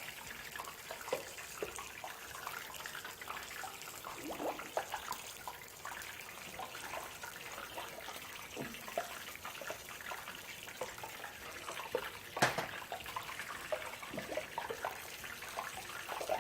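Quiet kitchen work sounds: a steady hiss with scattered light clicks and taps while chicken drumsticks are handled and dusted with flour, and one sharper knock about twelve seconds in.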